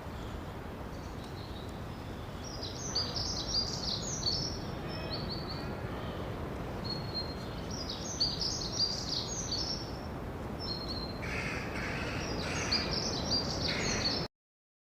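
Songbirds singing in bursts of rapid, high chirping phrases over a steady low background rush of outdoor ambience. The sound cuts off abruptly near the end.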